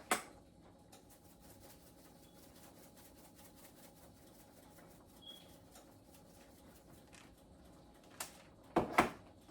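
A pot of chicken and dumplings simmering on the stove, with faint, steady ticking and popping from the bubbles. There is a sharp knock just after the start and a few knocks close together near the end.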